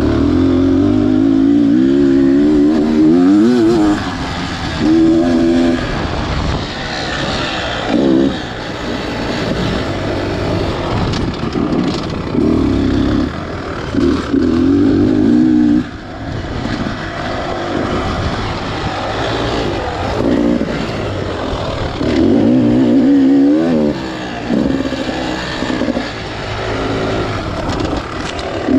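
Beta Xtrainer 300 two-stroke single-cylinder dirt bike engine being ridden with the throttle worked on and off. The engine note rises and falls in repeated bursts of a second or more, with brief drops as the throttle is chopped.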